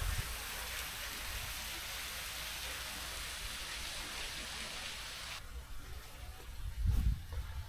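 Steady rushing of water, like a small waterfall or stream, that cuts off suddenly about five seconds in; a low thump follows near the end.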